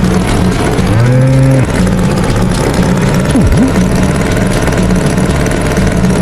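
Cartoon tractor engine chugging with a steady pulsing rhythm, and a short held low tone about a second in.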